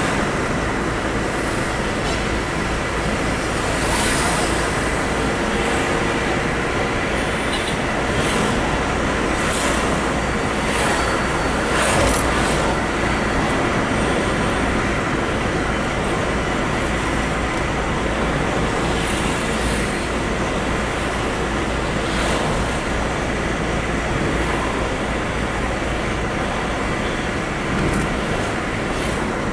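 Steady road noise of a vehicle travelling, with a low engine rumble under it and occasional brief knocks and rattles.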